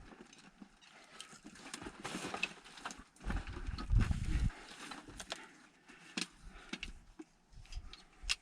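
Scattered knocks, clicks and scuffs of climbing gear, rope and boots against rock as a person works down a mine shaft, with a heavier low rumble about three to four seconds in.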